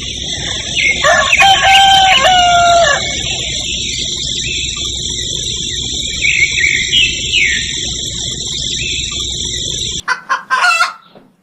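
A rooster crowing once, a long multi-part cock-a-doodle-doo, over a steady background hiss, with a shorter, weaker call a few seconds later. The background cuts off suddenly near the end, followed by a few brief clicks.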